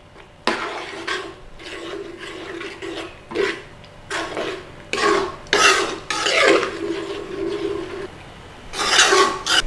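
A spoon stirring and scraping through thick curry sauce in a pan in irregular strokes, louder about five to six seconds in and again near the end.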